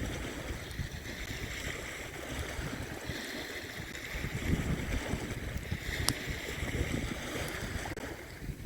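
Wind buffeting the microphone over waves washing on the beach, with one sharp crack about six seconds in.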